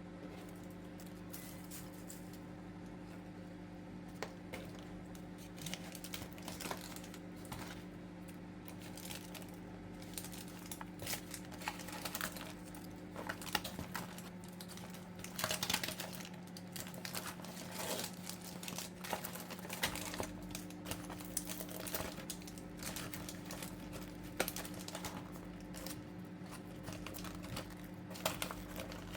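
Microwave popcorn popping inside a running microwave oven: irregular sharp pops over the oven's steady hum, sparse at first, crowding together in the middle and thinning out again.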